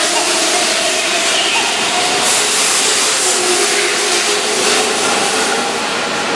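Keihan 7200-series electric commuter train rolling past along the platform, with wheels on the rails, running noise and a faint steady whine from the motors.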